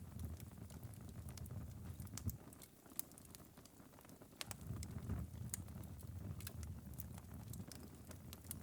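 Glowing ember bed of a wood-burning fireplace crackling with sparse, irregular small pops and ticks over a low rumble, the coals of a fire that has burned down after about five hours.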